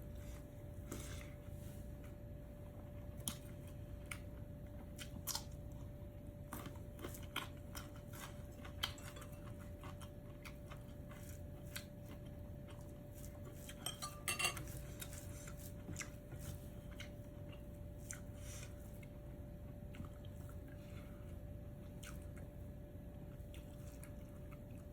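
Scattered light clicks and clinks of cutlery against dishes while eating, with a short cluster of them about halfway through, over a faint steady hum.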